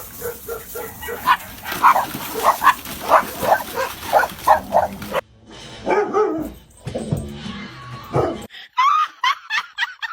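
A dog barking and yipping in short repeated calls, about two a second, for roughly the first five seconds, with music. After a brief break the sound changes, and it ends in a run of quick chirping glides.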